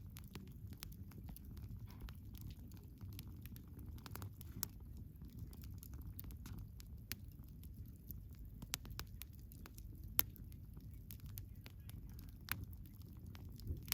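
Wood bonfire crackling: irregular sharp pops and snaps over a steady low rumble of the burning fire, with the sharpest pop about ten seconds in.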